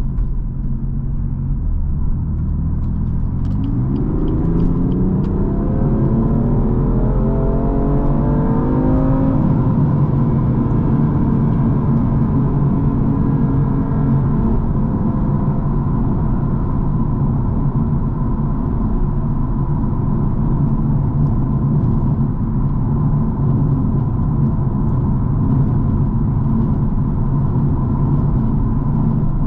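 BMW M4 Competition's 3.0-litre twin-turbo inline-six accelerating about three seconds in, its note rising for about six seconds. It then settles into a steady drone with road rumble while cruising.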